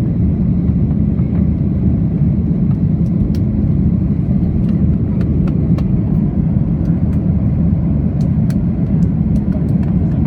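Airliner cabin noise during the climb after takeoff: a loud, steady low rumble of the engines and airflow, with a few faint ticks and rattles.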